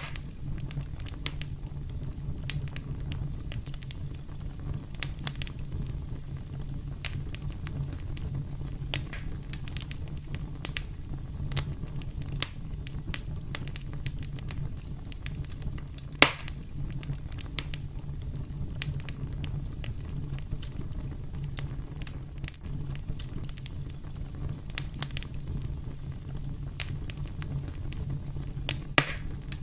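Campfire burning with a steady low rumble and frequent sharp crackles and pops of burning wood; one loud pop about halfway through and another near the end.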